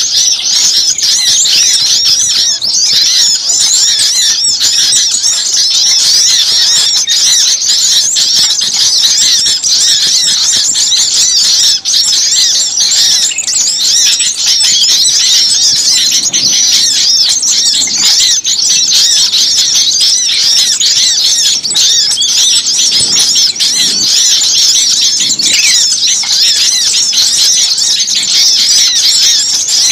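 Dense chorus of many small birds calling at once: a continuous, noisy din of rapid high-pitched chirps and squeaks. It is a bird-lure (suara pikat) recording of agitated small songbirds, played to draw other small birds in.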